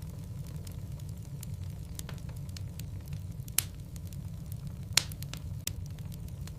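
Logs burning in a fireplace: a steady low rumble with scattered small crackles and two sharp pops, about three and a half and five seconds in.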